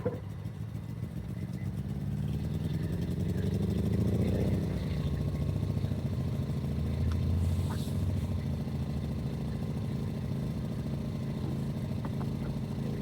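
Portable generator engine running steadily. Its pitch rises over the first few seconds, then holds.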